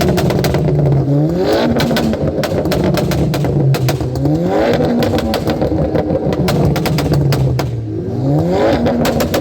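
Car engine idling and revved three times, each rev a quick rise in pitch, with many sharp crackles throughout.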